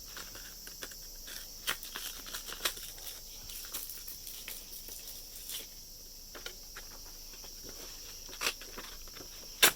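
Sheet of sandpaper being folded and creased by hand, giving scattered short rustles and clicks, with one sharp click near the end, over a steady high-pitched background hum.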